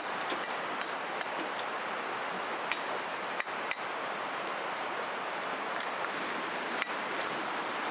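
Steady rushing of a flowing river, with scattered light crackles and a few sharp clicks or taps, two close together about three and a half seconds in and one near the end.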